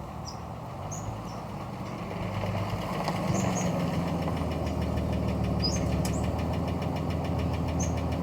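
An engine running steadily with a fast, even ticking. It builds up over the first few seconds and holds until it cuts off just after the end. Birds chirp now and then.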